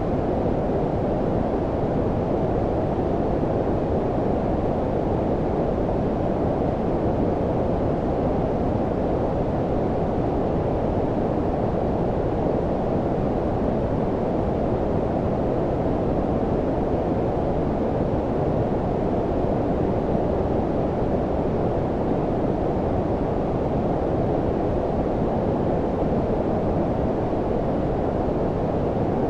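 Steady, deep noise of the brown-noise kind: a low rumbling hiss with the high end rolled off, unchanging throughout.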